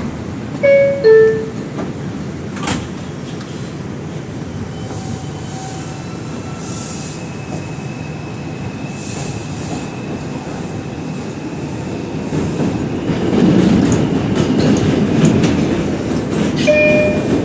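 R142 subway car's two-tone door chime, falling in pitch, about a second in. Then the train gets under way: running noise of wheels on rail and the propulsion motors, with a thin steady whine in the middle and a louder rumble near the end.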